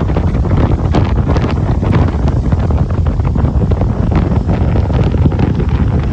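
Strong wind buffeting the microphone, a loud low rumble with crackling gusts, over the noise of rough sea surf.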